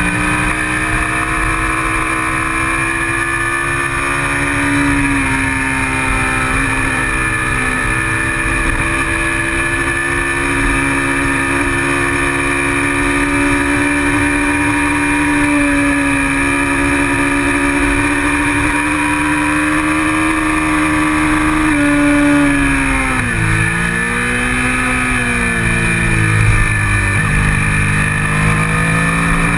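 Kawasaki Ninja 650R parallel-twin engine running at high revs under race throttle, heard from on board over heavy wind buffeting. About 22 seconds in the revs fall sharply, then climb back and level off near the end.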